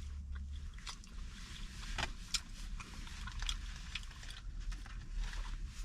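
A person chewing and biting food close to the microphone, with irregular small crunches and clicks, over a steady low rumble.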